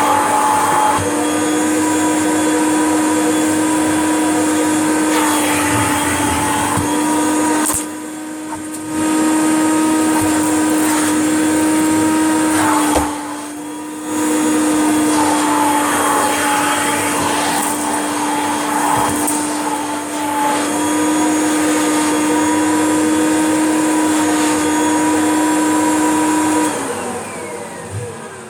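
Kirby upright vacuum cleaner running, a steady motor whine with rushing air as it picks up ground-in cat litter and dust. Twice the sound dips briefly. Near the end it is switched off and the motor winds down with a falling whine.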